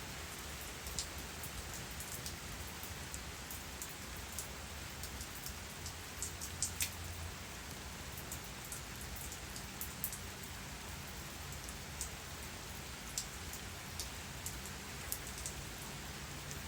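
Steady rainfall: an even hiss of rain with scattered sharp drips and drop impacts on nearby surfaces.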